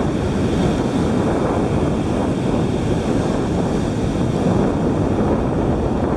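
Steady wind buffeting the camera microphone, over the wash of ocean surf.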